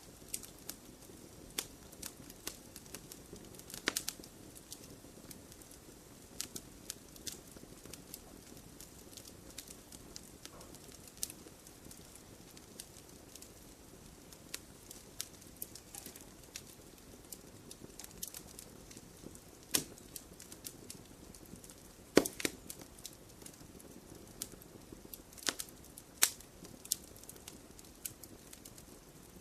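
Wood campfire burning and crackling: a soft steady rush of flame with irregular sharp pops and snaps, a few louder pops about 4, 20, 22 and 26 seconds in.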